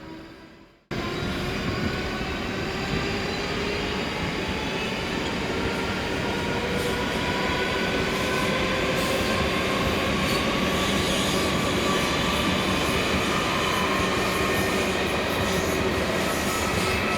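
Train running at the platform, a continuous rush of wheel-on-rail noise with several whining, squealing tones that slowly glide in pitch. The sound cuts in abruptly about a second in.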